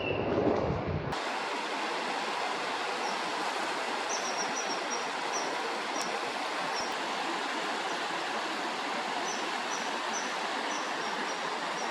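Steady rushing of flowing water, with a series of short, high, thin calls repeated from about three seconds in, typical of a common kingfisher calling.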